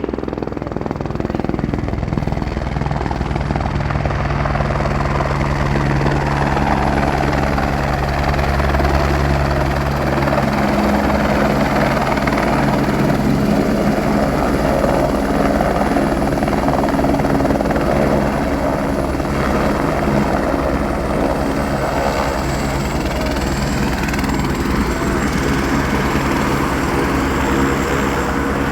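Helicopter running close by: a rapid, even rotor beat under a high turbine whine. The whine drops slightly in pitch about two-thirds of the way through.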